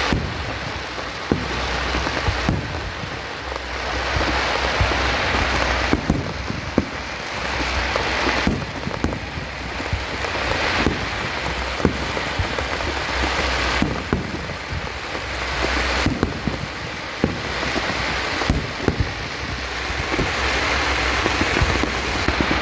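Fireworks display: a dense, continuous crackle with frequent sharp bangs throughout.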